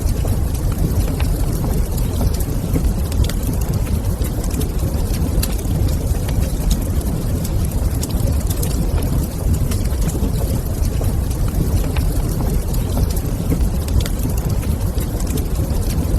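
Fire burning in a fireplace: a steady low rumble with frequent small crackles scattered throughout.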